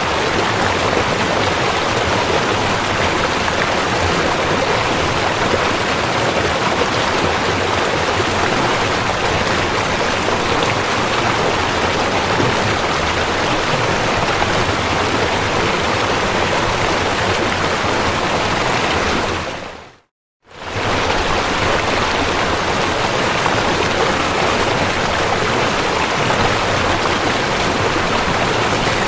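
River water flowing, a steady rushing noise. About two-thirds of the way through it fades out to silence for about half a second, then fades back in.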